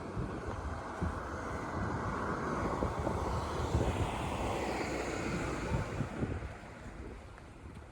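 A vehicle passing by: a steady rushing noise that builds to a peak about halfway through and fades away toward the end.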